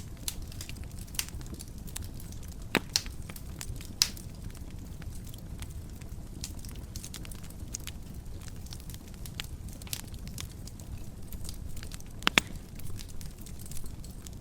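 Wood fire burning in a fireplace: a steady low rumble of flames with scattered crackles and sharp pops, the loudest a little under 3 seconds in, about 4 seconds in, and a double pop about 12 seconds in.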